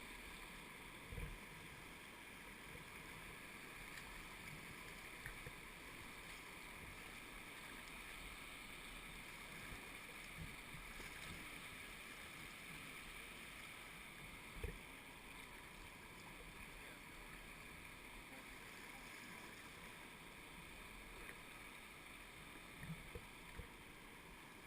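River water rushing steadily, with a few dull low thumps about a second in, midway and near the end.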